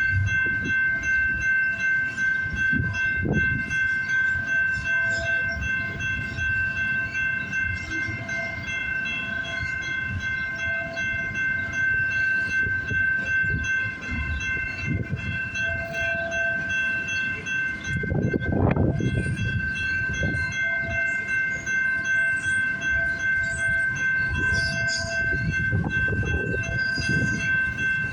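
Freight cars of a CN train rolling past, a continuous rumble with repeated surges and one louder swell about two-thirds of the way in, over a steady high-pitched squeal.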